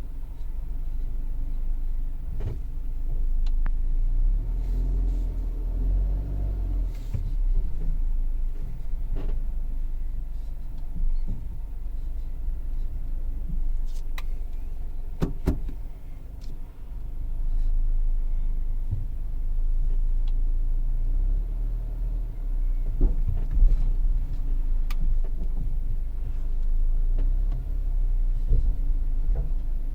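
Fourth-generation Kia Rio driving, with a steady low road and engine rumble and short creaks from the front end at irregular intervals. The owner cannot account for the creak.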